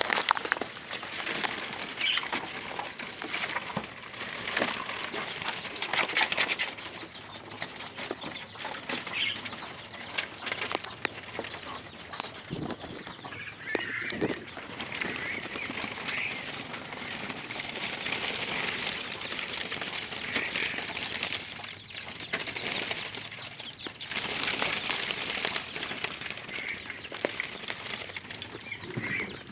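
Javan myna flapping its wings in repeated irregular bursts of rustling, with a few short calls in between.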